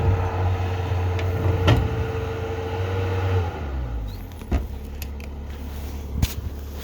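Bobcat skid-steer loader engine running steadily at high revs, then winding down to a lower, quieter idle about three and a half seconds in, with a couple of sharp knocks.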